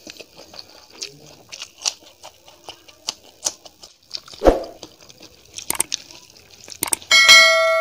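Close-up eating sounds: a run of small wet clicks and smacks from chewing mouthfuls of dal and rice eaten by hand, with one heavier thump about halfway. Near the end a loud bell-like ding from a subscribe-button sound effect rings out and fades.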